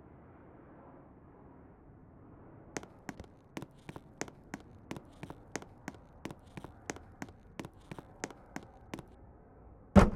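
A series of evenly spaced light clicks or taps, about three a second for some six seconds, followed by a single loud thump near the end.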